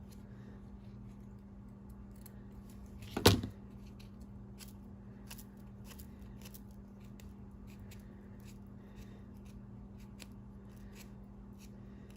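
Scissors snipping excess fabric scraps from the edges of a card, a series of faint clicks, with one much louder knock about three seconds in. A steady low hum runs underneath.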